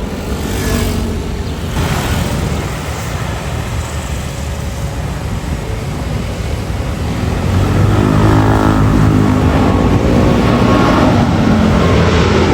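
Jet engines of a departing Boeing 777-300ER airliner. The engine noise gets clearly louder a little past halfway, and a buzzing engine tone that shifts in pitch comes in over the rushing jet noise.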